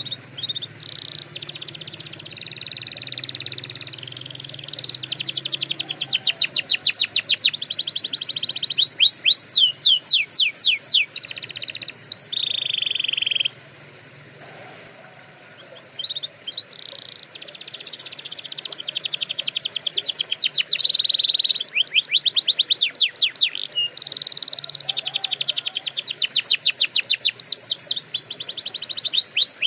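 A domestic canary singing two long song phrases of rapid rolling trills and fast sweeping notes. The first phrase ends on a held note, and after a short lull the second phrase starts and runs on.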